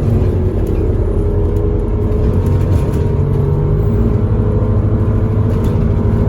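Single-decker service bus's engine and drivetrain running steadily under way, heard from inside the passenger cabin: a low rumble with a steady hum.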